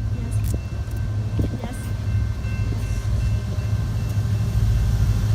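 Metra commuter train running on the track with a steady low rumble, with faint steady high tones above it.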